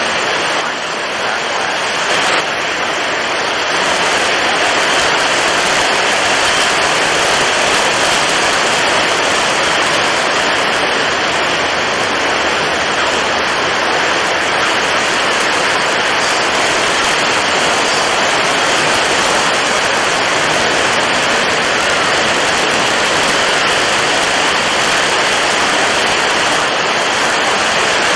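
Storm at sea: strong wind and crashing waves blend into a dense, continuous rush. It swells a few seconds in, then holds steady.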